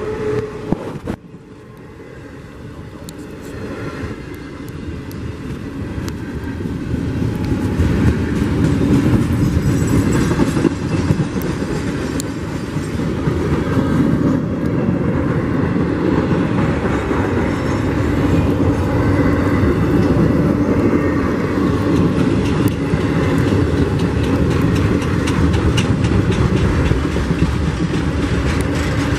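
Norfolk Southern intermodal freight train's cars rolling past: a steady rumble and rattle of steel wheels on rail with scattered clicks. It dips briefly about a second in, then builds over the next several seconds and holds.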